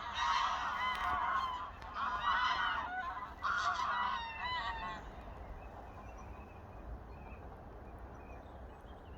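A flock of geese on a lake honking loudly together, many overlapping calls that die away about five seconds in, leaving only faint background hiss.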